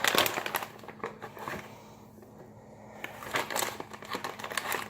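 Food packaging crinkling as it is handled, in two spells of dense crackling with a quieter pause between.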